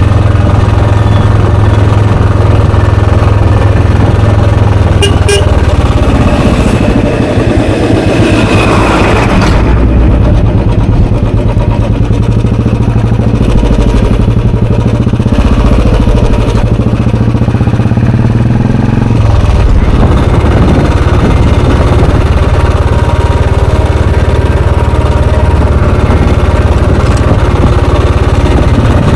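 Royal Enfield Bullet 350's single-cylinder, air-cooled four-stroke engine running under way with its exhaust note. The engine note changes about two-thirds of the way through.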